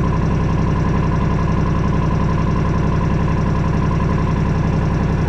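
Kubota RTV utility vehicle's engine running at a steady, even speed, with no revving.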